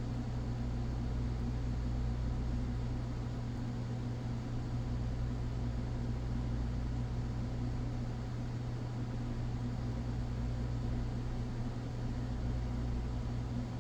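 Steady low electrical hum with an even hiss, unchanging throughout: background room noise such as a fan or mains hum.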